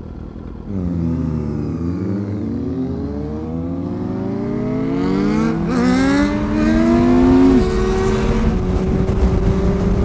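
Sport motorcycles pulling away from a stop and accelerating through the gears, led by the 2002 Yamaha Fazer 1000's inline-four: engine pitch climbs in several sweeps, falling back at each upshift, then holds steady at cruising speed for the last couple of seconds. Early on, more than one engine can be heard rising and falling across each other.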